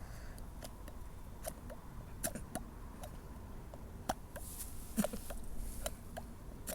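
A person making a run of small, irregular clicks and pops, a few of them with a short hollow pitch.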